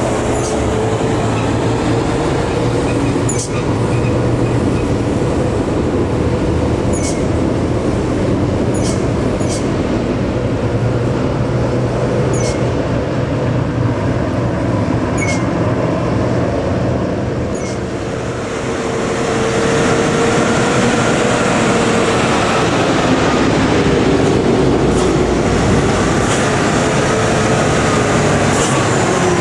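Loaded dump truck coasting down a long, steep descent: a steady heavy rumble with a held whine that wavers a little in pitch, and a few sharp ticks. It dips briefly a little past halfway, then comes back louder with more hiss.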